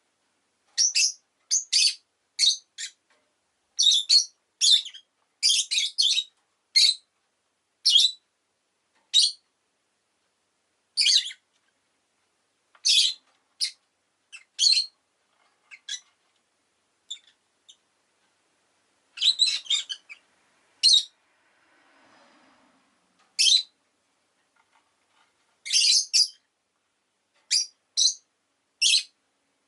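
Rosy-faced lovebird chirping: short, sharp, high-pitched chirps in quick runs of several, broken by pauses of a second or more.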